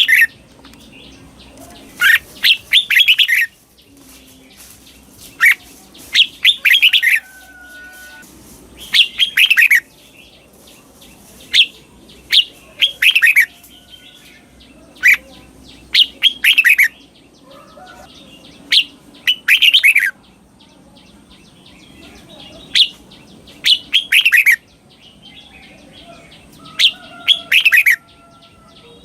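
Red-whiskered bulbul singing short, bright phrases of quick notes, one phrase every two seconds or so. This is the doubled-phrase song style used to train caged Thai competition bulbuls.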